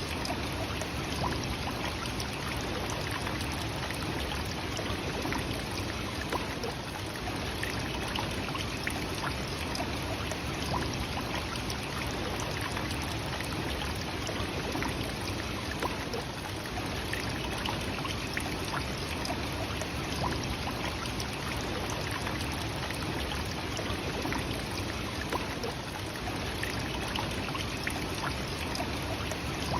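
The Nachi Falls waterfall, a single tall plunge, makes a steady, even rush of falling water.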